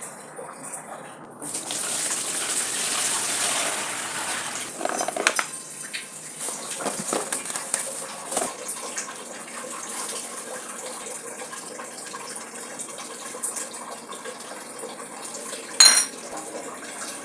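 Water running from a tap into a sink, turned on about a second and a half in, with dishes and utensils knocking and clinking now and then. The loudest is one sharp clink near the end.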